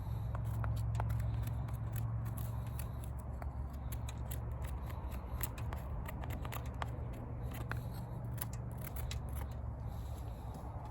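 Wood fire crackling, with many small sharp pops at irregular intervals over a steady low rumble.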